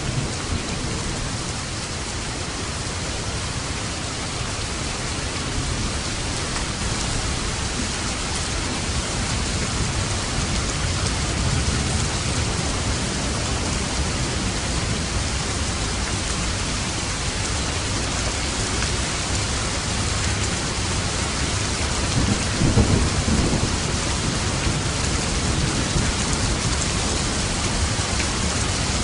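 Steady heavy rain with rolling thunder rumbling low beneath it, with a louder rumble of thunder about three-quarters of the way through.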